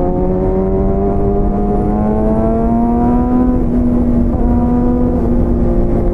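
Motorcycle engine pulling under load, its pitch climbing slowly and then dropping a little about three and a half seconds in before holding steady, over a constant rush of wind noise.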